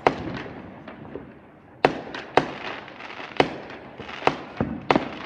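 Fireworks going off: about half a dozen sharp bangs at irregular intervals, each ringing out briefly, with smaller pops and crackling between them.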